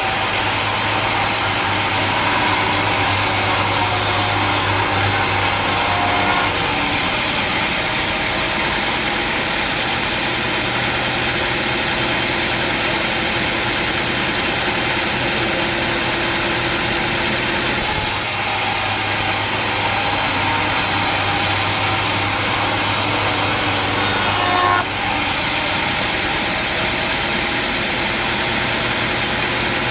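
Sawmill machinery running steadily, engine and saw noise together. Twice it turns brighter and hissier for several seconds, starting and stopping abruptly.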